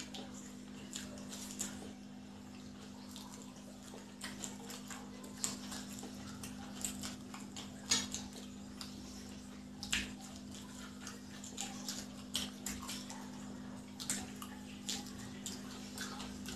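People chewing fried egg devils close to the microphone: faint mouth clicks and smacks at irregular intervals, a few sharper than the rest, over a steady low hum.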